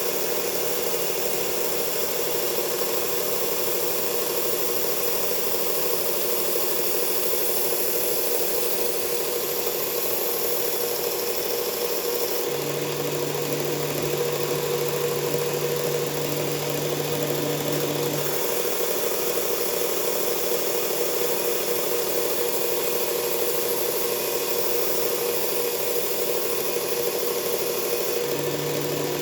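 Powered belt grinder running steadily while a knife blade is sharpened on the belt, its sound shifting about 12 seconds in, again near 18 seconds, and near the end.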